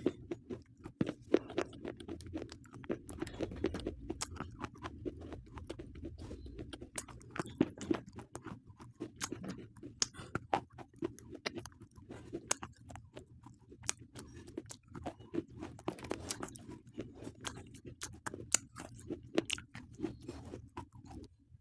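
Slate pencils being chewed close to the microphone: a steady run of sharp, irregular crunches and clicks over a low chewing sound.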